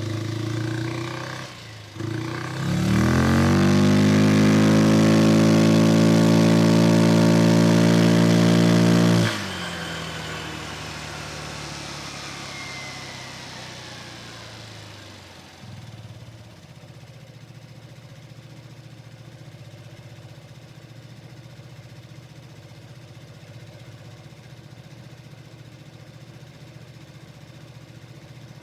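Vespa Sprint 150 single-cylinder scooter engine: a few seconds in the revs climb and then hold loud and steady. About nine seconds in the sound drops off suddenly, fades, and settles into a quieter steady low running.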